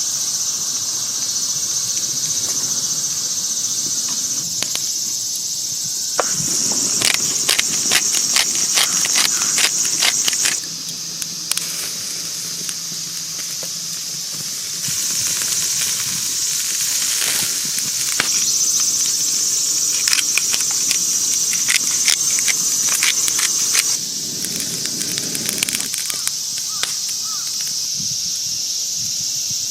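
Chicken yakitori skewers sizzling over campfire charcoal, with runs of sharp crackles and pops from the coals over a steady high hiss.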